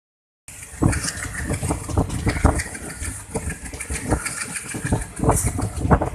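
Train running, heard from on board: a steady low rumble with irregular knocks and clatter and a hiss, starting about half a second in.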